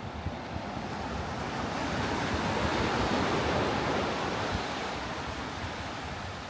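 Sea surf: a wave breaking and washing up the sand, swelling to a peak about halfway through and then fading. Wind buffets the microphone underneath.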